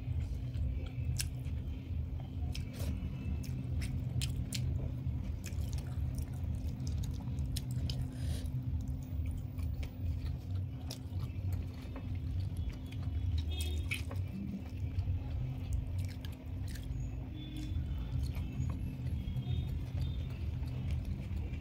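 Close-miked chewing, with scattered short clicks and crackles of eating, over a steady low hum.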